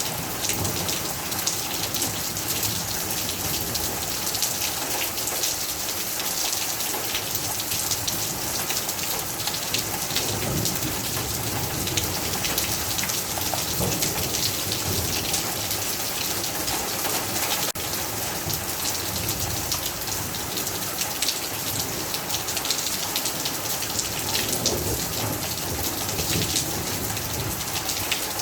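Steady heavy rain, a dense patter of drops hitting surfaces, with a few low rumbles of thunder.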